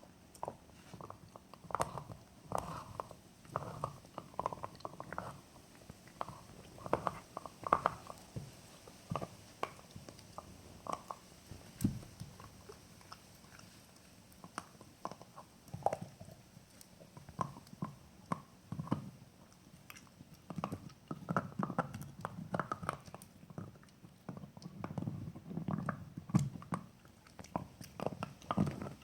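Jack Russell terrier chewing and gnawing on a bone: irregular crunches and clicks of teeth on bone, with a short lull about halfway through.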